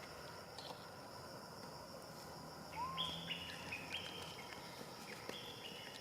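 A run of short high calls, one after another, starting a little before three seconds in, with one lower rising-and-falling call among them, over a steady high insect-like drone.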